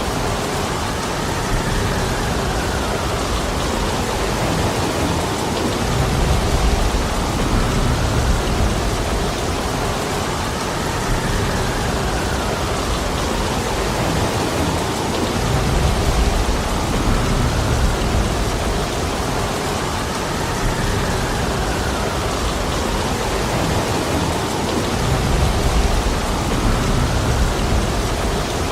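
Steady heavy rain falling, with low rumbling swells that recur about every ten seconds.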